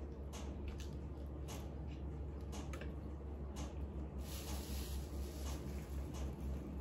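Close-miked chewing of pizza: scattered soft wet clicks and smacks of the mouth, with a brief hiss a little past halfway, over a steady low hum.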